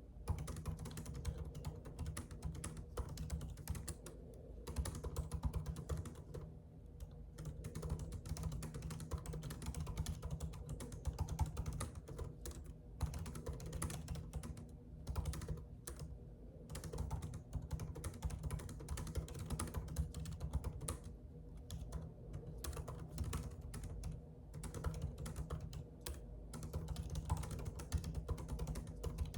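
Typing on a computer keyboard: a fast, continuous stream of key clicks that stops for a moment every few seconds.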